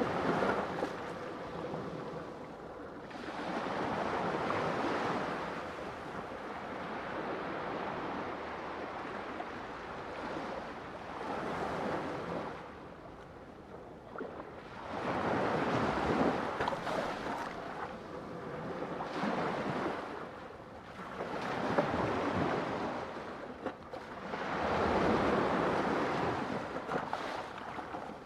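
Ocean waves breaking on a shore, the surf swelling and fading again every few seconds.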